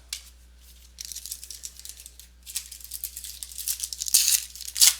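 Crackly rustling of plastic wrappers and trading cards being handled, in quick scratchy bursts that grow louder toward the end.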